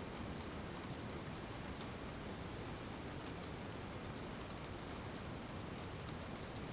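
Steady rain falling, an even hiss with scattered light ticks of individual drops striking.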